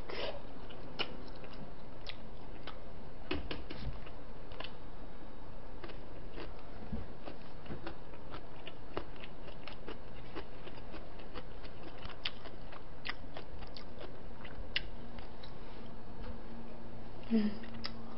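Close-up mouth sounds of a person chewing a piece of soy-braised chicken: irregular small wet clicks and smacks, with a brief hum from the eater near the end.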